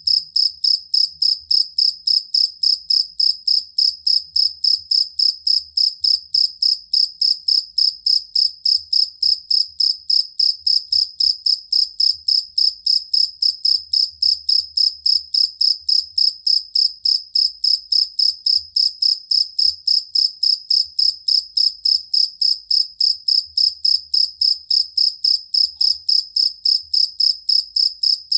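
Collared cricket (jangkrik kalung, the two-spotted field cricket Gryllus bimaculatus) singing: a steady, even run of high chirps, about three or four a second, unchanging in pace and loudness.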